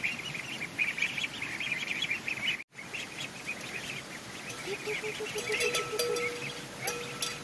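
A flock of ducklings peeping rapidly and continuously, with a brief break about two and a half seconds in. A faint steady tone joins over the second half.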